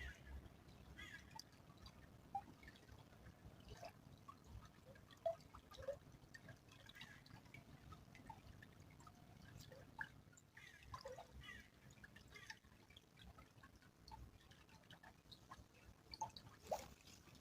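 Small stream trickling faintly, with irregular plinking drips of water.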